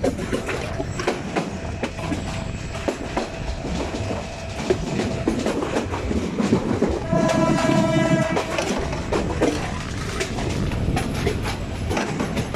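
Train running along the track, heard from aboard, with wheels clicking over rail joints. The horn sounds once, a pitched blast of about a second and a half in the middle.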